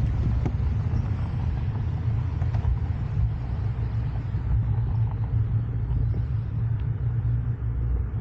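Steady low rumble of wind buffeting the camera microphone while riding a bike, with a few faint knocks from the bike over the trail.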